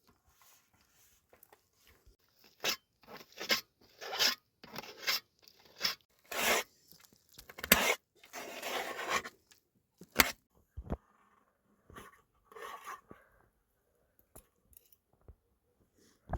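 A run of short, rough scraping and tearing strokes over several seconds, two of them longer and rasping, then a few fainter rustles near the end.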